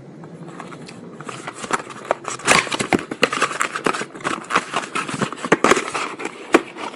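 Irregular crackling and sharp clicks of cardboard packaging being handled and opened: an oil filter being taken out of its box.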